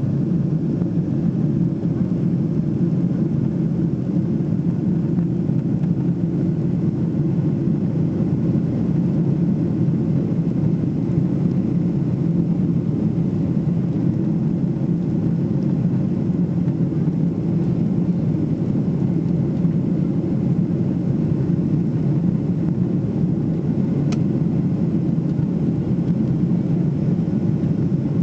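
Steady low drone inside the cabin of a Boeing 777-300ER in flight: its GE90-115B engines and the airflow past the fuselage, heard from a window seat.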